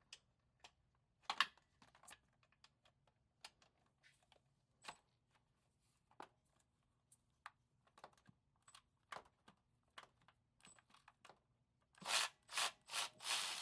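Sparse light clicks and taps of a socket wrench working a loosened transmission bolt, then a quicker run of louder ratcheting clicks near the end as the bolt is wound out.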